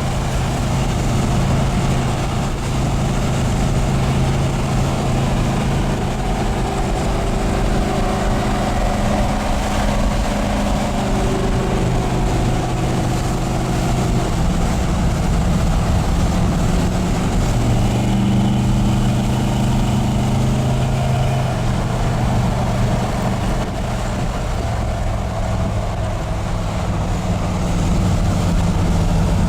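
Rebuilt Ford 302 small-block V8 running through full-length headers and dual exhaust, a steady low engine note whose pitch shifts a few times.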